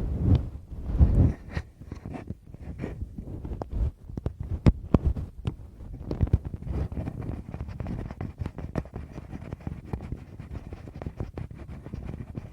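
Fingers touching, tapping and rubbing directly on a Tascam recorder's microphones: deep muffled thumps in the first second or so, then many light, irregular taps and scratches.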